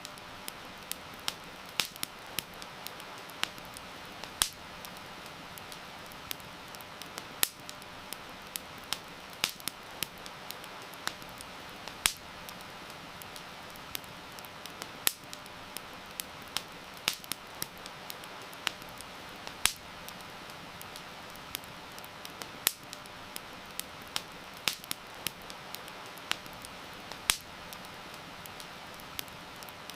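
Wood fire crackling, with irregular sharp pops over a steady hiss of heavy rain.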